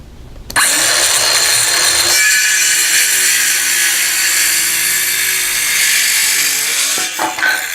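Battery-powered saw cutting through a wooden 2x4. It starts about half a second in, runs steadily through the cut, and dies away near the end.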